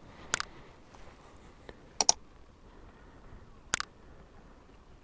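Sharp double clicks repeating about every 1.7 seconds, three times, over a faint low hiss.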